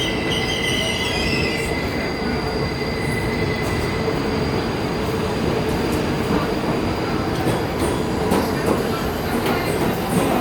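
New York City subway train running through the station with a steady rumble of wheels on rails, steel wheels squealing in high tones that fade out about two seconds in.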